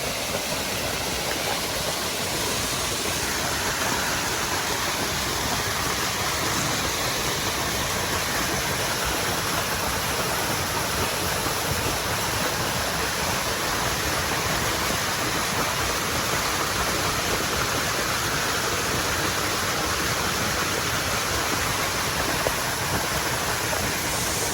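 Fast-flowing water rushing loudly and steadily, as from a mountain stream or waterfall beside the trail.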